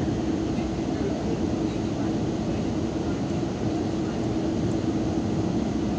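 Steady running noise of a Metrolink commuter train heard from inside the passenger car: an even rumble and rush with a constant low hum.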